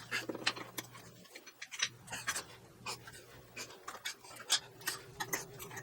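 Irregular clicks and scrapes of a hand tap being worked into a drilled hole in 1/8-inch steel, cutting threads, over a faint steady hum.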